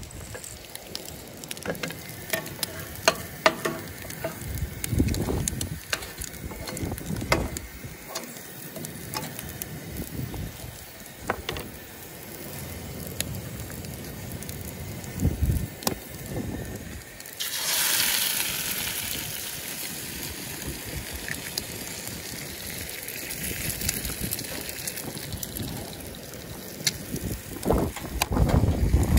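Hot dogs frying in a nonstick pan on a Coleman camp stove, with scattered clicks and knocks of handling. A bit past halfway, a louder, higher sizzle starts suddenly as an egg goes into the hot pan, and it keeps on sizzling.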